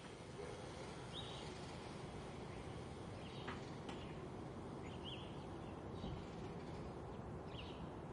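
Faint outdoor background noise with a bird chirping repeatedly, short high calls every second or two.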